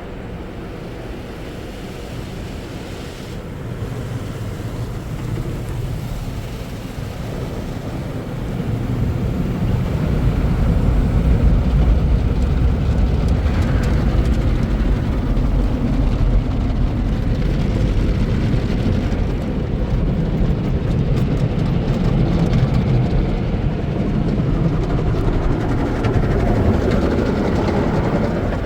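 Car wash tunnel equipment working around a car, heard from inside the cabin: a steady wash of machine and water noise that gets louder and heavier about ten seconds in.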